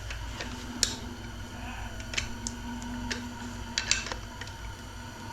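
Sharp, scattered clicks and clinks of small metal transmission parts being handled during a 4L60 automatic transmission teardown, over a low steady hum.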